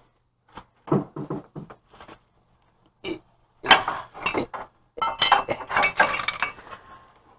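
Metal hand tools clinking and clattering: a few separate knocks about a second in, a single clink near three seconds, then a busier run of metallic clatter with some ringing in the second half.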